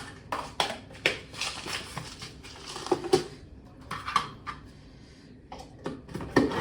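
Kitchen utensils knocking and scraping against a bowl: irregular clinks and taps, with a scraping rustle in the middle, as oats and yogurt are handled in the bowl.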